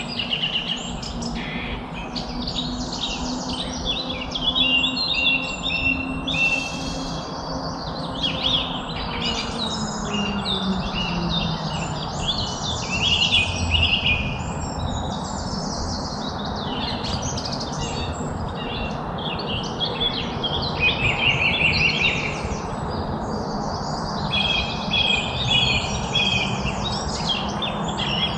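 Several small songbirds chirping and trilling almost without pause, their calls overlapping, over a steady low background rumble; a faint low hum drops in pitch about ten seconds in.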